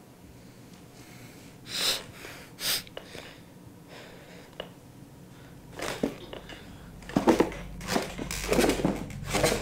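A person's breathing and sniffing in a small room, with two sharp breaths about two seconds in, then louder irregular rustling and scuffling from about halfway on.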